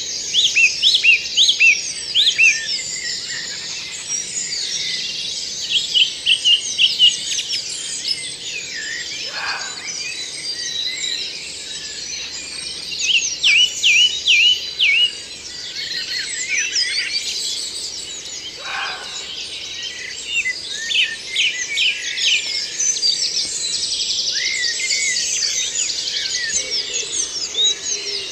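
Woodland dawn chorus in spring: many songbirds singing at once in overlapping high, chirping phrases, with a louder burst of nearby song every few seconds.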